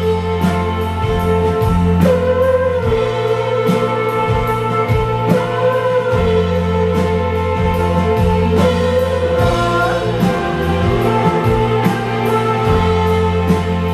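Live rock band playing: electric guitars over sustained bass, with drums and cymbals struck at a steady beat.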